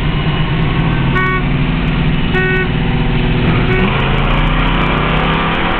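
Engines of a 1974 Pontiac Firebird and a 1975 Chevy Nova running hard side by side at speed in a street race. Two short car-horn honks sound about a second apart, the first a little over a second in.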